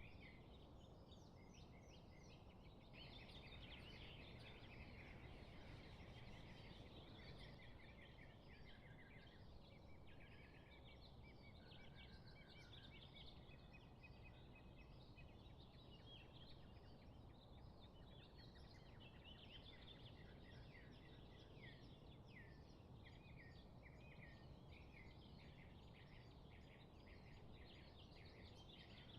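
Faint birdsong: several small birds chirping and trilling in many short, overlapping calls, over a low steady background rumble.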